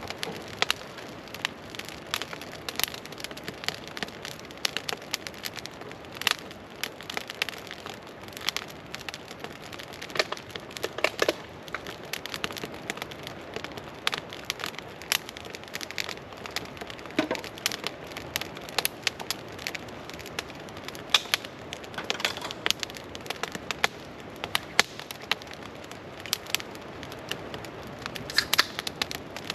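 Wood campfire crackling over a steady hiss, with irregular sharp pops, a few louder than the rest.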